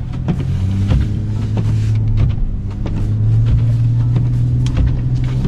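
Chevrolet Colorado pickup's engine running steadily under load as the truck plows through deep snow, with scattered knocks and thumps. The engine note steps up slightly about three seconds in.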